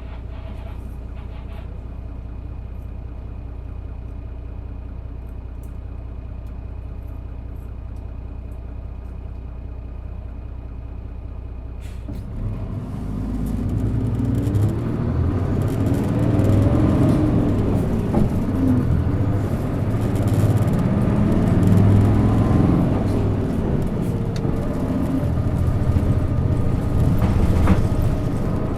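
Isuzu Erga city bus (PJ-LV234N1) diesel engine idling steadily, then about twelve seconds in pulling away under hard acceleration and getting louder, its pitch rising and dropping back twice.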